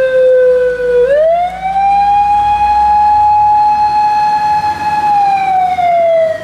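Japanese police car siren wailing in one slow cycle: the pitch sinks, rises sharply about a second in, holds high for about four seconds, then falls again near the end.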